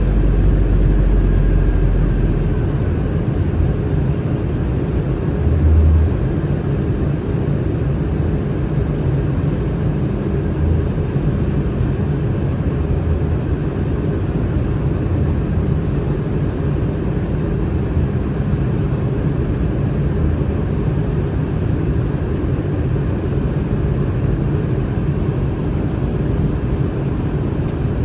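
Airliner cabin noise in flight aboard an Airbus A319 with CFM56 engines: a steady, dense rumble of engines and airflow. A deep low rumble fades out about two to three seconds in, and there is a brief low bump near six seconds in.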